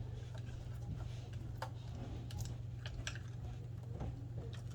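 Scattered light clicks and ticks from hands handling wiring and plastic parts, about a handful spread over the few seconds, over a steady low hum.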